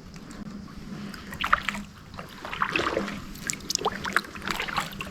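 Kayak paddle strokes in shallow water: splashing and dripping from the blade in about three groups, roughly one a second.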